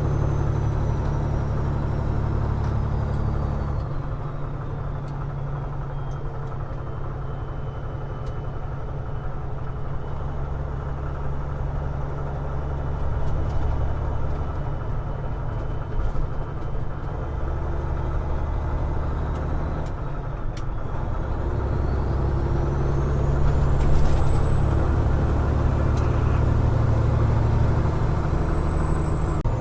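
Peterbilt 389 glider's diesel engine running at highway speed, a steady drone that eases off about four seconds in and builds again after about twenty seconds, with a thin high whine that falls and later climbs.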